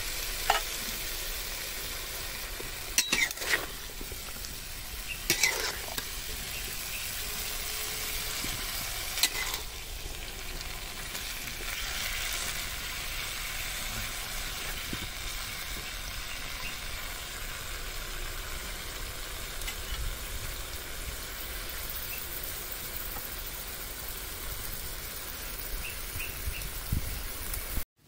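Cauliflower and fried egg sizzling in a metal wok while being stirred with a metal spoon. There is a steady sizzle, with a few sharp knocks of the spoon against the pan in the first ten seconds.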